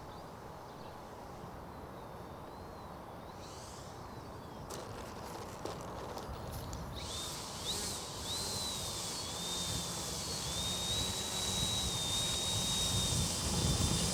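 Brushless electric motor and propeller of a Durafly Ugly Stick V2 RC plane in flight: a thin high whine that wavers and steps in pitch, faint at first and growing louder from about halfway through.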